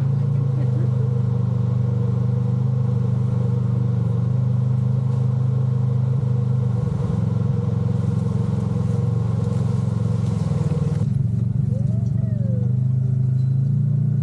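Side-by-side UTV engine running at a steady speed, a constant low drone; about eleven seconds in the higher-pitched part of the sound drops away while the low drone carries on.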